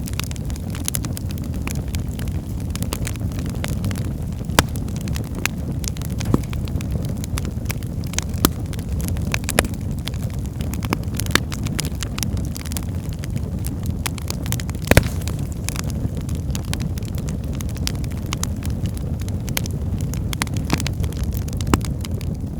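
Wood fire burning in a fireplace: a steady low rumble of the flames with frequent sharp crackles and pops, a few louder snaps among them.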